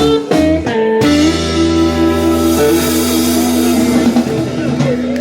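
Live band with guitar, bass and drums playing the closing bars of a song, ending on a long held chord with cymbal wash.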